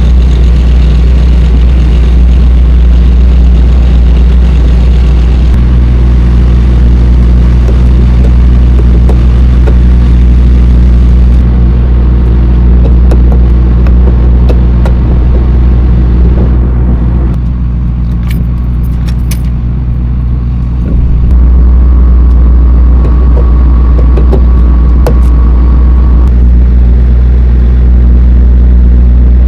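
Semi truck's diesel engine running steadily at low revs as the tractor-trailer backs into a dock door. The engine drops off a little for a few seconds about two-thirds through, then picks back up.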